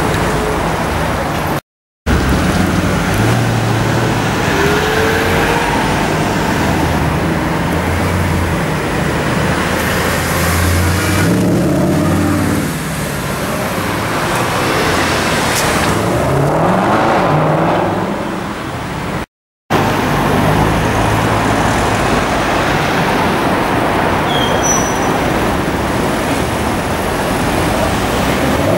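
Mercedes-Benz SLS AMG's 6.2-litre V8 running at low revs in slow traffic, a low steady engine note with a short rise in revs about two-thirds of the way through, over street traffic noise. The sound cuts out completely for a moment twice.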